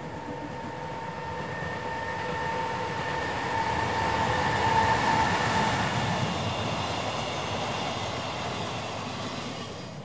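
Freight train passing: an EH500 electric locomotive hauling long-rail flat wagons and a Yo 8000 brake van. The sound swells to its loudest about halfway and then fades as the train moves away, with a steady high whine over the rumble during the first half.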